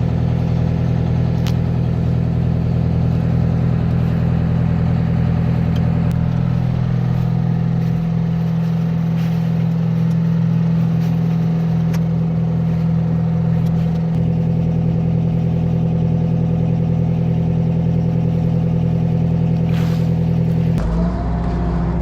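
Boom boat's engine running steadily at a constant pitch, with a slight change in its sound near the end.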